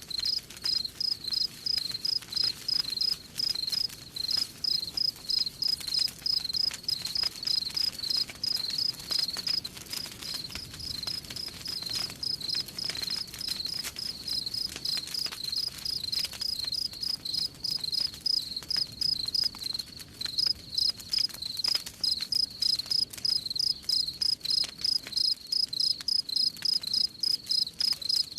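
Crickets chirping in a steady rhythm, about three chirps a second, over faint crackling of a campfire.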